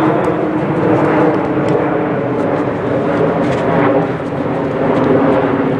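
A steady, loud engine-like drone with a constant hum, with a few faint sharp ticks over it.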